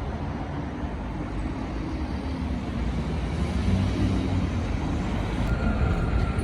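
Road traffic: motor vehicle engines running with a steady low rumble that grows slightly louder.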